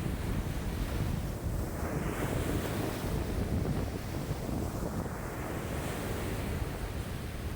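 Lake waves washing in strong wind, with wind buffeting the microphone as a low rumble. The hiss of the wash swells and fades every few seconds.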